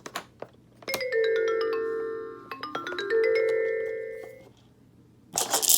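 Electronic baby learning-table toy playing xylophone-like notes that run down a scale and back up, set off by a few clicks of its buttons. A short rattling burst comes near the end.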